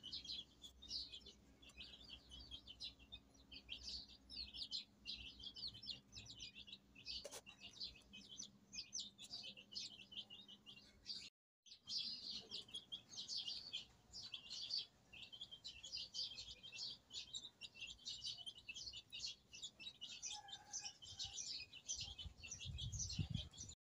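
Small birds chirping in the background: a busy, overlapping run of short, high chirps that breaks off briefly about halfway through.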